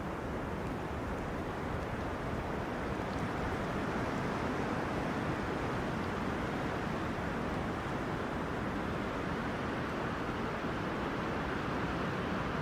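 Wind blowing through tree crowns: a steady rushing noise that swells slightly a few seconds in.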